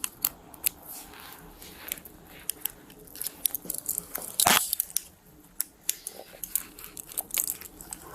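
Steel handcuffs being worked: scattered sharp metal clicks, with one louder rasping ratchet about four and a half seconds in.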